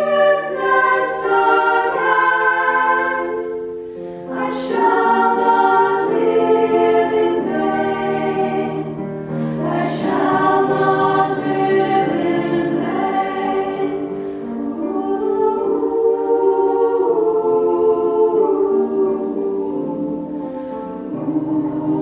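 A choir singing a slow song in several voice parts, with long held notes and short breaks between phrases about four and ten seconds in.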